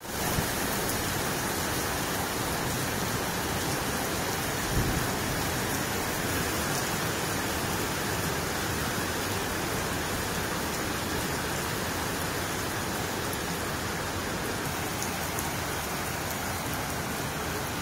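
Heavy rain pouring steadily onto paved walkways and puddles, with one brief low thump about five seconds in.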